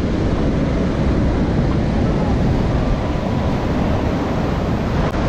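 Strong sea wind buffeting the microphone in a steady, heavy rumble over the wash of breaking surf.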